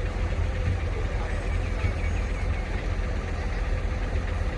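Heavy construction machine's diesel engine running steadily: a deep, even low rumble with a faint steady hum above it.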